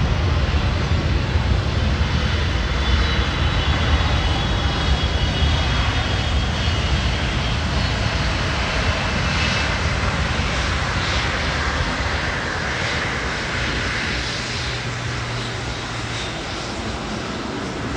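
Boeing 777-300ER's GE90 turbofan engines passing: a heavy low rumble with steady high whining tones over the first half, easing off gradually through the second half.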